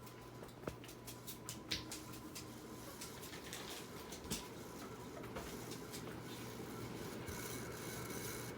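Craftmade decorative ceiling fan running with a steady low hum and an irregular scraping, clicking noise, something rubbing as it turns.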